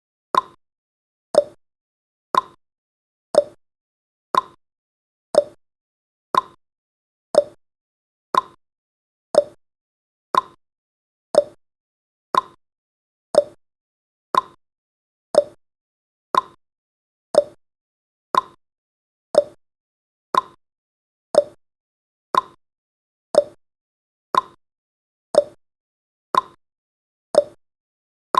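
Countdown timer's tick sound effect: a short, quickly fading plop-like tick repeated evenly once every second.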